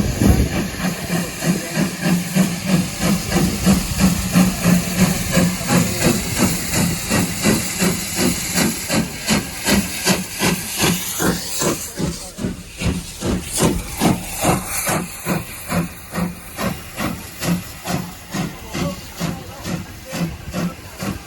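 Steam locomotive working, its exhaust chuffing in an even rhythm of about two beats a second over a hiss of steam; a little past halfway the chuffs grow quieter.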